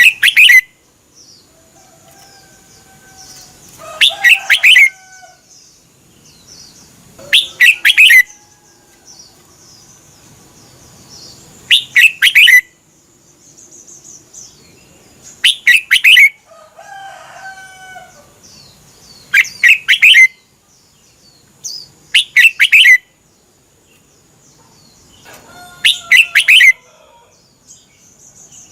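Red-whiskered bulbul singing: loud, short phrases of a few quick notes, repeated about every four seconds. Fainter, lower chirps come between the phrases.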